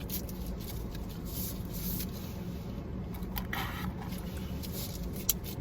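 Eating and food-handling noises: light rustling and scraping with a short louder rustle about three and a half seconds in and a couple of sharp clicks near the end, over a steady low hum.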